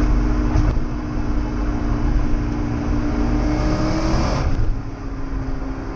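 1998 BMW E39 540i's 4.4-litre V8 with a Reuter Motorsport exhaust, heard from inside the cabin while driving through a tunnel. The engine note rises slowly under throttle. About four and a half seconds in it drops away and quietens.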